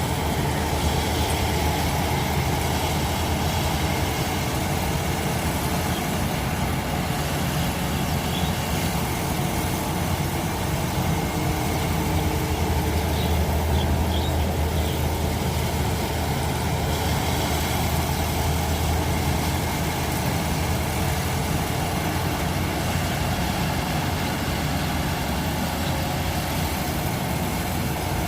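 Combine harvester's diesel engine running steadily at a constant pitch, with a few faint bird chirps.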